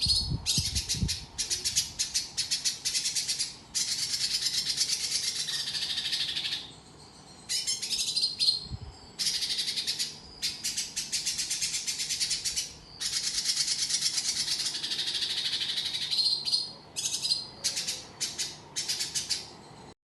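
Cucak cungkok songbird singing in long, high-pitched rapid rattling chatters, broken by a few short pauses.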